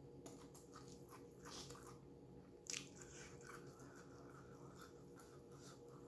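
Faint close-up eating sounds of a person chewing shrimp and sator beans: small wet mouth clicks and smacks, with one louder, sharper bite a little under three seconds in, over a steady low hum.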